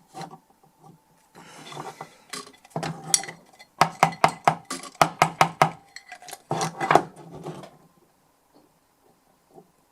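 A short scrape, then a quick run of sharp metal taps, about four a second, from work on the DI box's input jack, which was being cleared of dirt.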